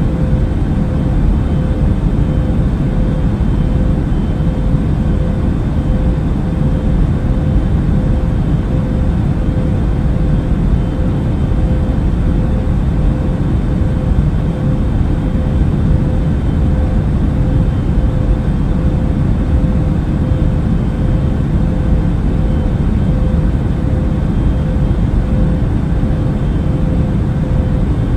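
Steady airliner cabin noise in flight: a deep, even rumble of engines and airflow with a faint constant hum running through it.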